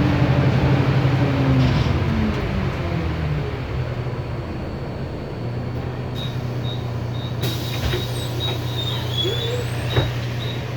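Otokar Kent LF bus's Cummins ISB straight-six diesel dropping in pitch as the bus slows, then idling steadily. From about halfway through, a regular high beeping about three times a second, typical of the bus's door-warning alarm, with a knock near the end.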